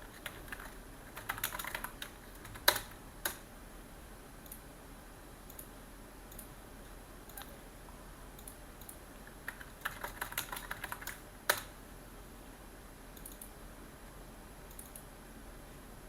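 Typing on a computer keyboard in two short runs, each ending in one louder keystroke, with a few scattered single clicks between them.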